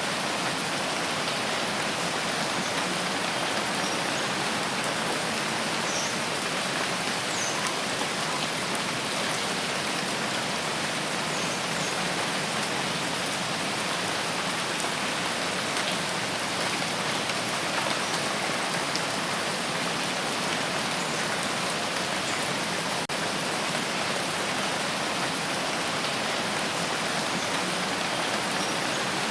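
Steady rain falling, an even hiss of drops on the ground and surfaces that does not let up.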